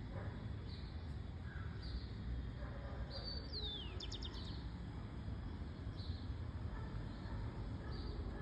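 Small birds chirping: short high chirps repeat about once a second, with a falling whistle and a quick trill three to four seconds in. A steady low background rumble runs underneath.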